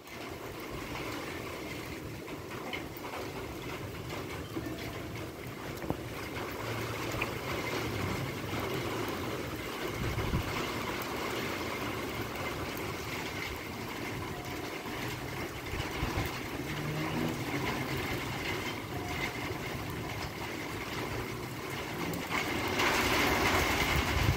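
Steady rain falling, a little louder near the end.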